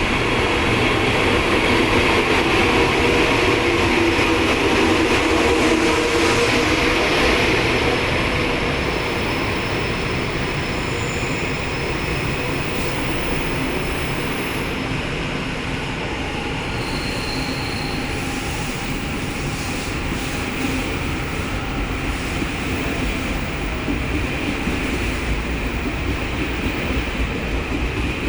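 Taiwan Railway push-pull Tze-Chiang express, with E500-series electric locomotives, moving out of the underground Taipei station. It gives a steady rolling rumble of wheels on rail, with some clickety-clack and light wheel squeal, slightly louder during the first several seconds.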